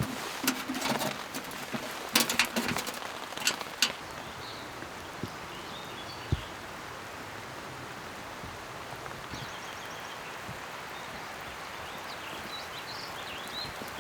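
Steady rushing water noise, with a handful of sharp knocks and clatters in the first four seconds and another knock about six seconds in. Faint bird chirps come through in the second half.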